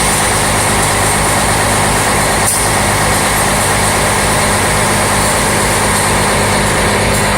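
Scania 111S tow truck's diesel engine running steadily, with a continuous hiss of compressed air from the front-axle air suspension system.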